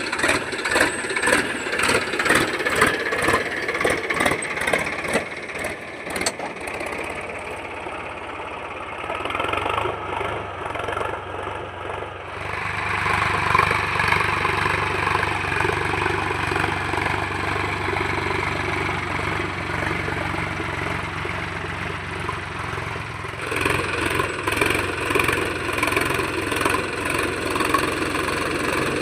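Tractor diesel engine running, with a rapid, even pulsing for the first few seconds and again near the end, and a steadier hum in between.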